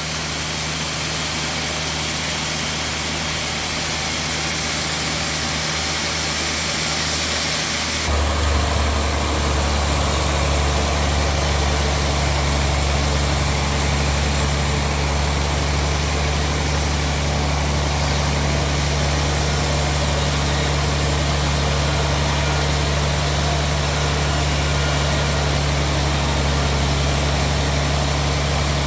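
Sawmill bandsaw machinery running with a steady, deep hum. About eight seconds in, the low hum becomes louder and stays so, as under a heavier load.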